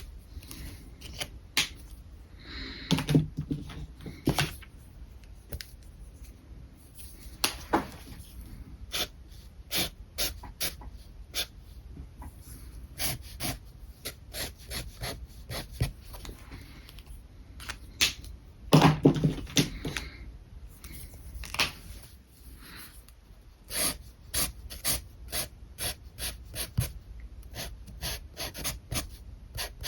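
Alcohol markers drawing on paper in many short, quick scratchy strokes, with two louder bursts about three seconds in and again near the middle.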